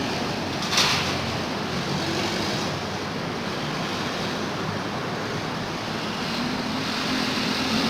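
Steady road traffic noise, with a short rush of noise about a second in and a low engine hum building near the end.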